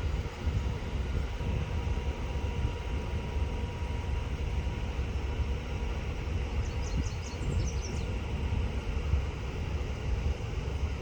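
Steady low outdoor rumble, with a quick run of several short, high bird chirps about two-thirds of the way through.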